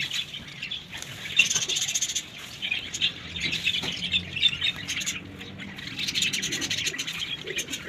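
Small birds chirping busily in a dense run of quick, overlapping high chirps, thickest about a second and a half in and again near the end.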